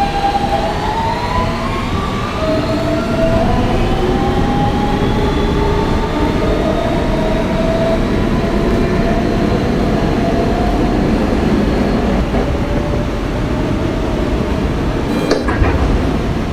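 Siemens traction propulsion of a Kawasaki R160B subway car whining as the train accelerates away from a station: several tones glide upward over the first few seconds and then level off, over the steady rumble of wheels on rail in the tunnel. A single sharp knock comes about 15 seconds in.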